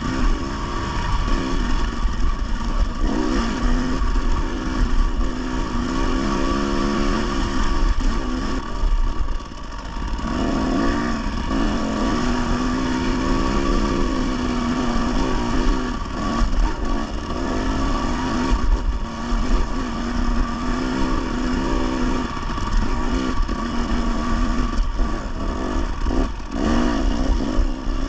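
Dirt bike engine running continuously while riding singletrack, its pitch rising and falling over and over as the throttle is opened and closed.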